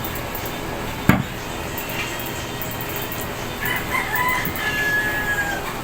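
A rooster crows once, starting about three and a half seconds in and ending on a long held note. A single sharp knock comes about a second in.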